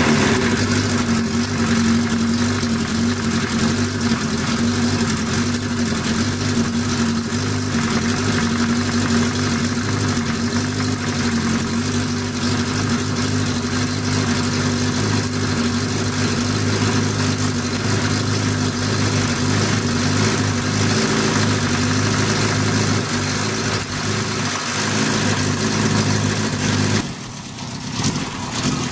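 Motorcycle engine running at a steady idle just after being started. Near the end the sound dips briefly, then rises again as the bike pulls away.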